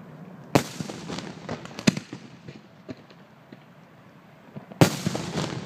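Fireworks going off: a loud bang about half a second in, a sharp report near two seconds, and another loud bang near the end, with scattered smaller pops and crackles between.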